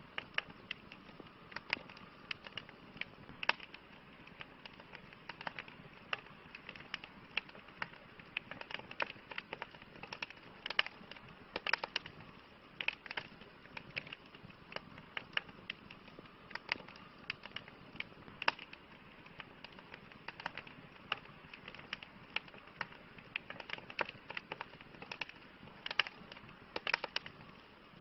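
Wood campfire burning, with irregular sharp pops and crackles, several a second, over a soft steady hiss.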